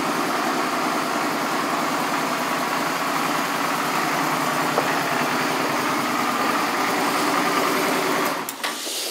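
2004 Suzuki V-Strom 650's 645 cc V-twin idling steadily and running well despite high mileage. It cuts off suddenly near the end.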